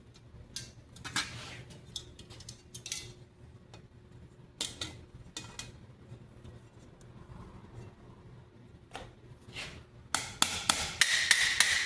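Scattered clicks and knocks of steel parts and tools being handled on a steel great helm. About ten seconds in, a quick run of hammer taps on the steel, each ringing, as a fastener is started.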